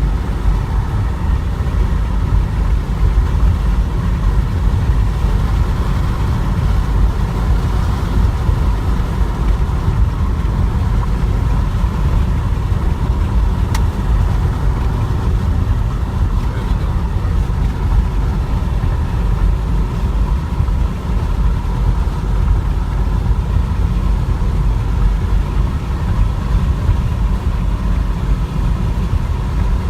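Steady low rumble of a vehicle driving: road and engine noise.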